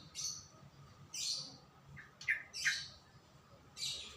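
A songbird giving short, high chirps, about five of them spaced irregularly.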